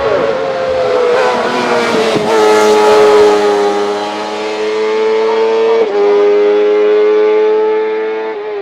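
Hillclimb race car's engine under hard acceleration, its pitch climbing slowly and dropping sharply at two gear changes, about two seconds in and near six seconds.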